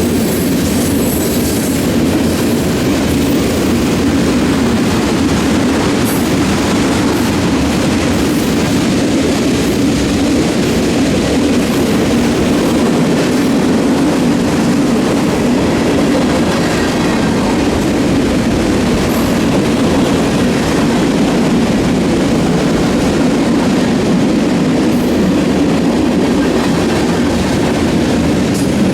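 Rail cars of a passing train rolling by at a steady speed, the wheels clattering continuously on the rails at an even, loud level.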